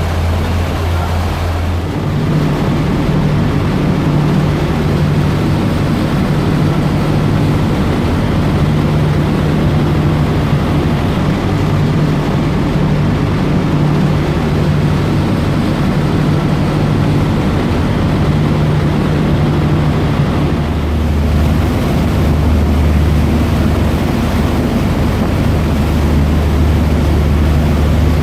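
Dubai Ferry's engines running at cruising speed: a steady low drone under a constant rushing noise. The hum shifts higher about two seconds in, and a deeper hum joins it about two-thirds of the way through.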